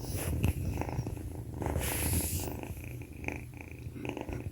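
Young kitten purring steadily, a low pulsing rumble, with a brief rustling noise about two seconds in.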